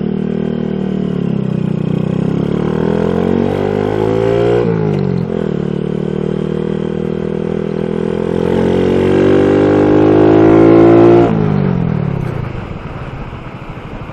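SSR Razkull 125 pit bike's single-cylinder four-stroke engine accelerating: the pitch climbs, drops sharply about four and a half seconds in as it shifts up, climbs again to its loudest near eleven seconds, then falls away as the throttle is closed.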